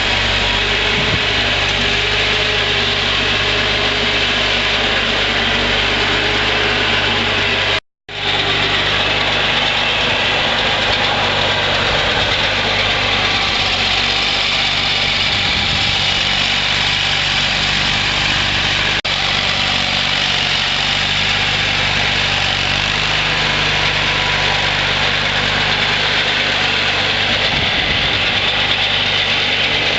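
Ingersoll garden tractor engine running steadily while snowblowing. The sound cuts out completely for a moment about eight seconds in, then picks up again.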